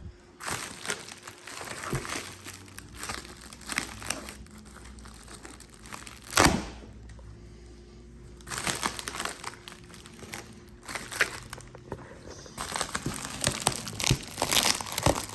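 Packaging being cut and pulled open one-handed with a knife: irregular crinkling and rustling of wrapping and cardboard, with one sharp knock about six and a half seconds in and a quieter pause just after.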